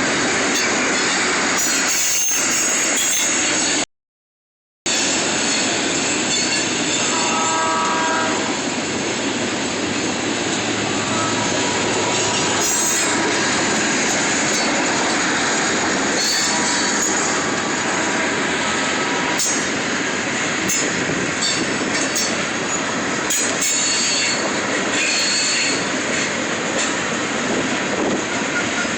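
A train passing close by, with a loud steady rattle and rumble of wheels on the rails. About seven seconds in comes a short pitched tone, and a thin high squeal near the end. The sound cuts out completely for about a second early on.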